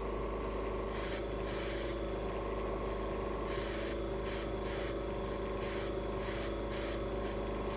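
Airbrush spraying paint in repeated short hissing bursts over the steady hum of its running compressor.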